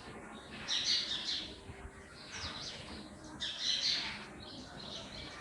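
A bird squawking and chirping in short repeated calls, loudest about a second in and again around three and a half seconds in.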